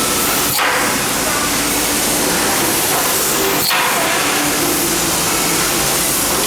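Stud welding machine firing twice, about three seconds apart, each weld a sharp crack, over a steady loud hiss.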